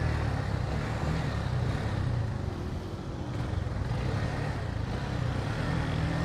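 Motorcycle engine running steadily while riding, with a continuous rush of wind and road noise.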